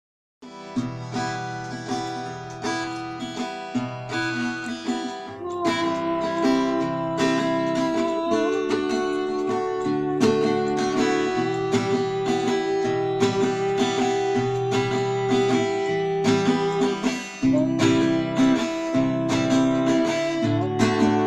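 Acoustic guitar playing a song's introduction: a steady pattern of picked chords, starting about half a second in, with a brief break near the end.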